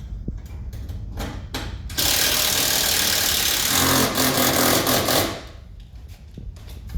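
A hand-held power tool runs for about three seconds, starting abruptly about two seconds in and winding down near five seconds, over a low steady rumble and a few light clicks.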